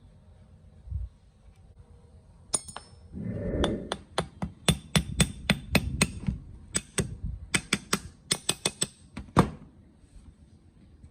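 A hammer striking metal: about twenty sharp blows in quick, irregular runs, each with a short metallic ring, starting a few seconds in, with a heavier scraping knock just before the blows begin.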